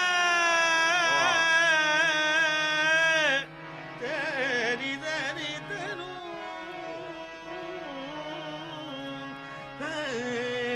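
Qawwali music: a male singer holds one long wavering note that breaks off about three and a half seconds in. Quieter melodic accompaniment over a steady drone follows, and the voice comes back in near the end.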